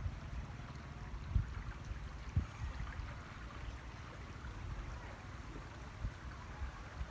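Stream water flowing after heavy rain, a faint steady rushing, over a low rumble, with two soft thumps a second apart near the start.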